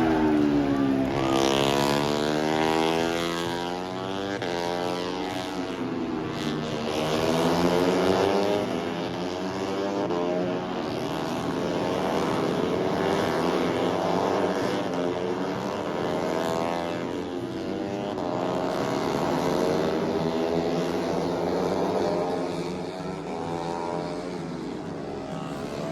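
Several racing motorcycles passing in succession at speed, their overlapping engine notes rising and falling in pitch as they accelerate, shift and go by.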